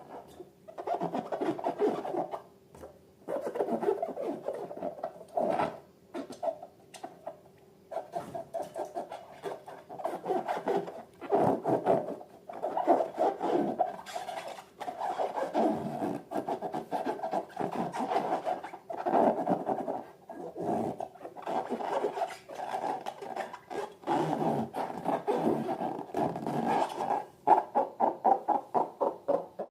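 Slime being squished and worked by hand, in irregular bursts of sticky clicking and popping with short pauses, ending in a quick run of pops near the end.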